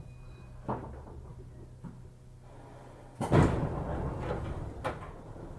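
205-series commuter train car stopped at a station, with a steady low hum from its equipment. About three seconds in comes a sudden loud thud and rush as the passenger doors slide open, then a sharp knock a moment later.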